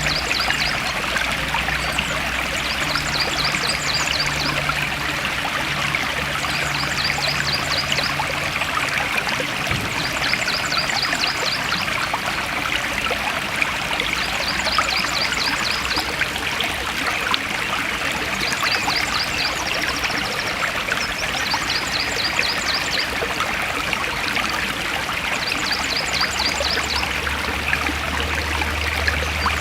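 Forest stream flowing steadily, an even rushing and trickling of water. A short, rapid, high-pitched chirping trill repeats every two to three seconds over it.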